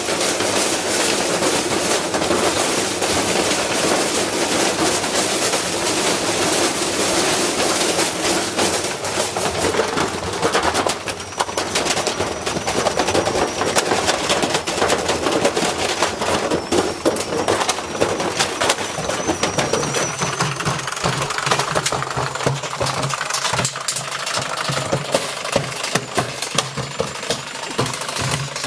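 Washing machine spinning with a heavy object loose in the drum, banging in a rapid, continuous hammering that is wrecking the machine. About two-thirds of the way through the banging thins and a steady low motor hum comes through.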